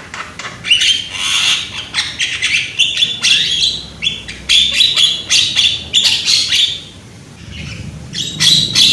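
Young Javan myna calling loudly: strings of harsh, rasping squawks and chattering notes. The calls pause briefly about seven seconds in, then start again.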